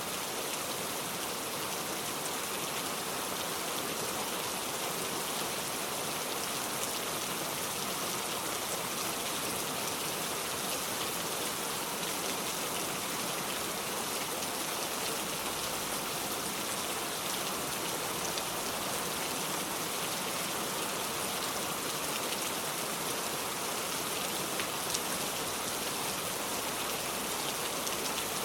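Steady rain falling: an even hiss of drops with faint scattered ticks, unchanging throughout.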